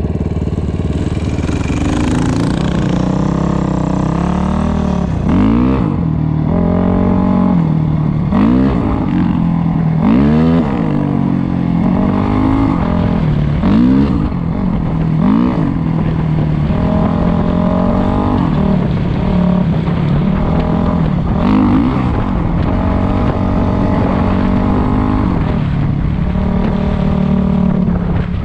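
Dirt bike engine running under load, its pitch swelling and dropping every second or two as the throttle is opened and closed.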